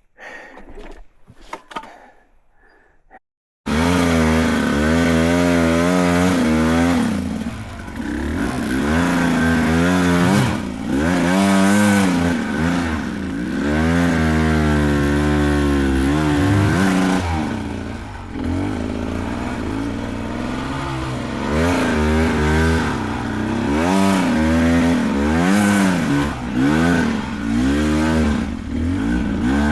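Beta 300 Race Edition two-stroke dirt bike engine, revving up and down over and over as the rider climbs the trail. It cuts in suddenly a few seconds in, after a short stretch of quiet.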